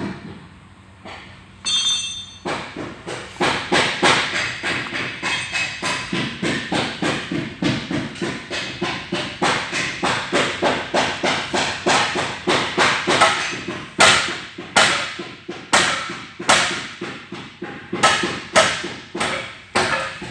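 Rapid repeated sharp knocks, two or three strong strikes a second with lighter ones between, starting about a second and a half in.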